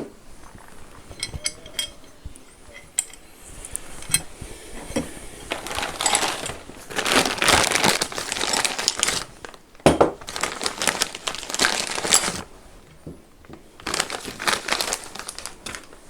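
Packaging being handled while a power tool is unboxed: crinkling and rustling in several long spells, with a few light clicks and knocks in the first seconds.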